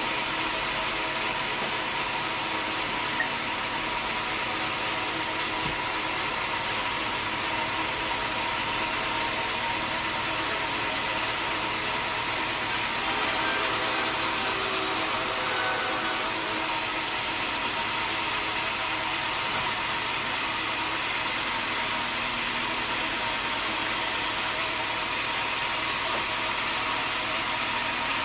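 Sawmill machinery running steadily: an even mechanical hum with several steady tones under a hiss, the hiss growing a little louder and higher for a few seconds about halfway.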